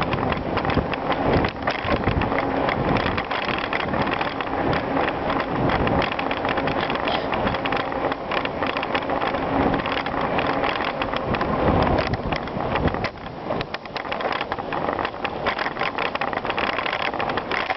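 Bicycle riding over a gravel trail: continuous tyre crunch and frame rattle with many small knocks, mixed with wind noise on the microphone. The rumble eases a little about two-thirds of the way through.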